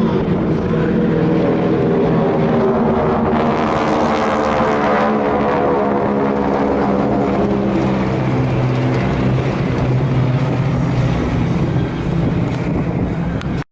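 Propeller aircraft engine drone, steady at first, then slowly falling in pitch as it passes; it cuts off abruptly at the end.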